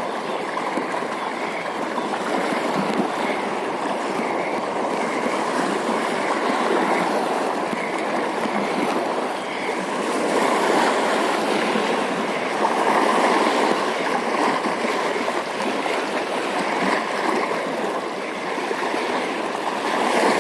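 Steady rushing of moving water, an even, unbroken wash of sound.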